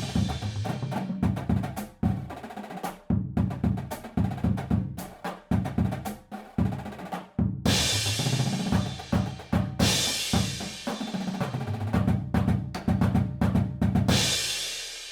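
Background music dominated by a drum kit: a busy beat of kick and snare hits with cymbal crashes every few seconds, fading out near the end.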